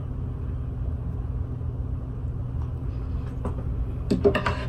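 Steady low background hum that stays level throughout. A few faint clicks and a brief voice-like sound come about four seconds in.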